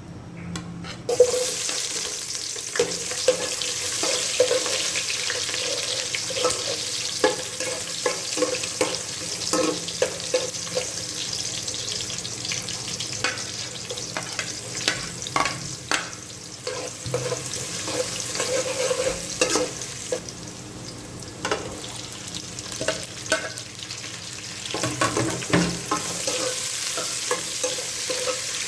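Food sizzling in hot oil in a pan, starting about a second in, while a utensil stirs it, with frequent clicks and scrapes against the pan.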